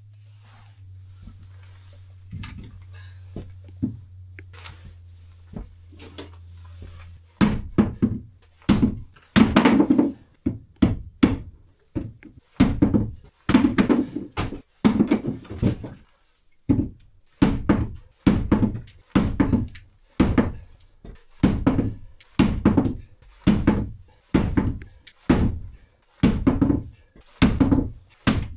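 Knife chopping hard nuts on a cutting board: a long run of heavy thunks, about one and a half a second, starting about seven seconds in. Before it only a faint low hum is heard.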